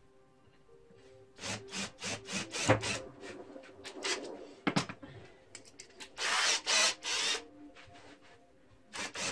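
Tool work on wood: a run of short rasping strokes, then two longer scraping bursts about six seconds in.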